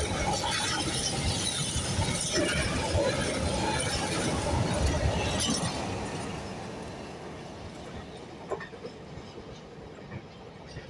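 Freight train wagons rolling past on the station track, with rattling and clanking from wheels and couplings and some wheel squeal; the noise dies away from about six seconds in as the end of the train passes.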